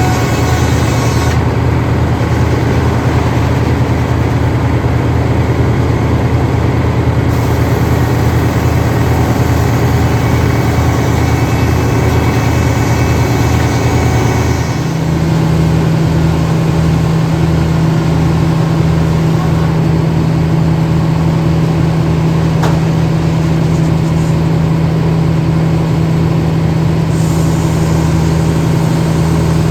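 An engine running steadily, its note shifting higher and more throbbing about halfway through.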